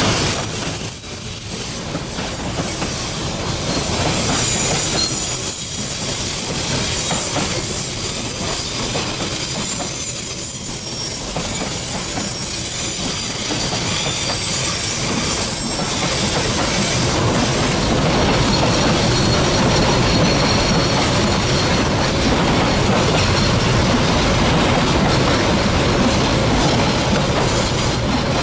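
Freight train of steel hopper wagons rolling past, wheels clattering on the rails with a thin high wheel squeal, growing louder about two-thirds of the way through.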